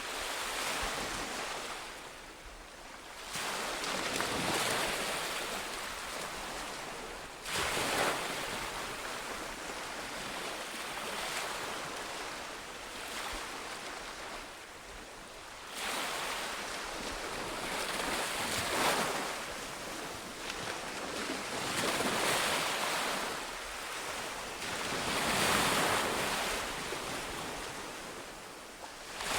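Ocean waves breaking on a beach, the surf swelling and ebbing in a slow rhythm, with a fresh surge every few seconds.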